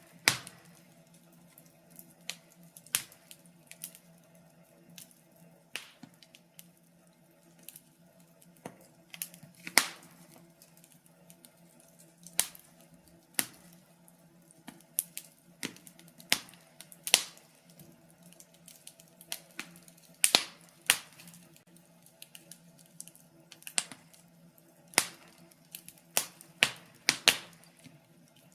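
Fireplace fire crackling: irregular sharp pops and snaps, often one or two a second with louder ones every few seconds, over a faint steady low hum.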